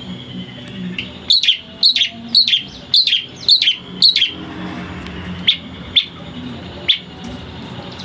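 Long-tailed shrike (cendet) calling: a quick run of about six sharp, downward-sliding notes, roughly two a second, then three more single notes spaced out, over a low steady hum.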